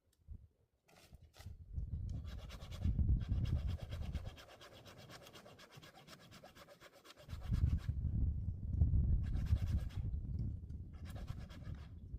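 Hand saw cutting wood in quick, even rasping strokes, over a heavy low rumble. The sawing comes in two spells, with a short pause about halfway.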